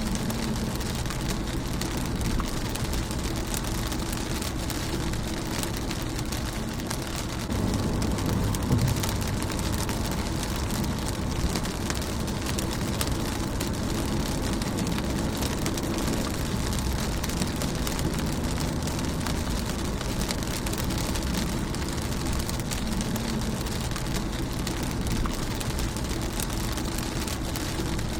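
Steady rain falling on a car's windshield, a dense pattering of drops over a continuous hiss, with a low rumble underneath that swells briefly about eight seconds in.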